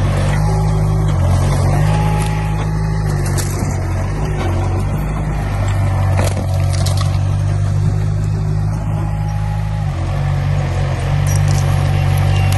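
Heavy diesel engine of earthmoving machinery running steadily under load, its pitch stepping up about a second in and dropping back near the end.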